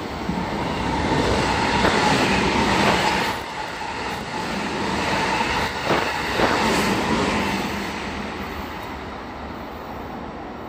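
JR electric passenger train running past at speed on the adjacent track, with a container freight train moving along behind it. The rumble builds over the first couple of seconds, peaks with a few sharp wheel clacks, and fades away near the end.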